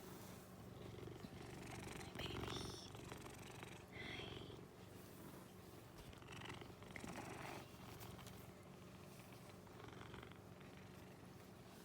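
Flame point Siamese cat purring, a faint steady purr that swells louder a few times.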